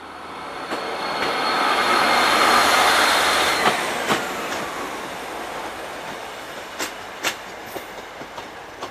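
A train running on nearby track: a swelling rumble with a steady high wheel squeal that cuts off about three and a half seconds in. Then comes a run of sharp clicks, about two a second, as wheels pass over rail joints.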